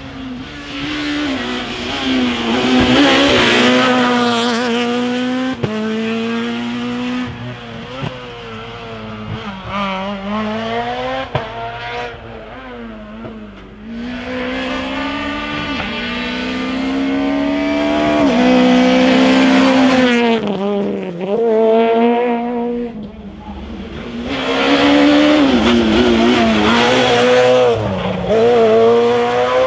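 Rally car engines revving hard, with the pitch climbing and falling again and again through gear changes and lifts. The engines get loud as cars come close, several times over.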